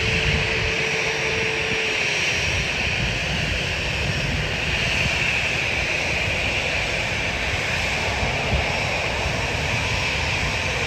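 Jet airliner engines running, a steady rushing noise with a strong hiss in the upper-middle range. A faint steady whine fades out about two seconds in.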